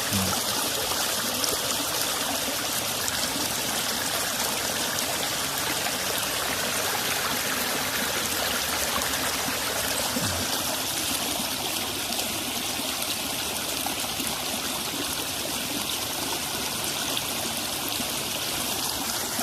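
Floodwater flowing steadily as it drains out of a flooded rice paddy.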